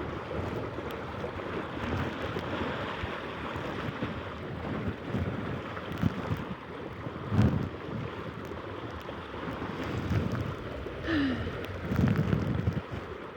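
Strong, gusty wind buffeting the microphone on a sailing dinghy, with water splashing. About eleven seconds in there is one short sound that falls in pitch.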